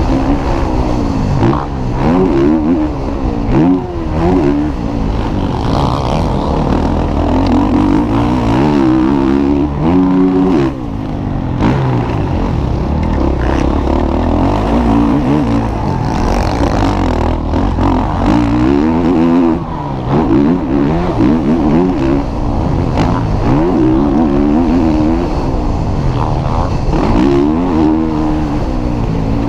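Motocross bikes' engines revving hard, the pitch climbing and dropping over and over as the riders open the throttle, shift and back off.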